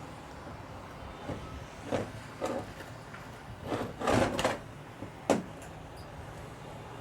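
Scrapes and knocks of a car's inner CV joint housing and tripod spider being handled while it is packed with grease. A few short knocks come early, a longer scraping cluster about four seconds in, and one sharp knock a second later, over a steady low background hum.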